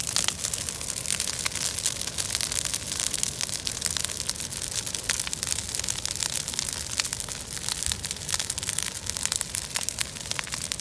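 Bonfire of cut invasive weeds burning, with a dense, steady crackling and popping over a hiss.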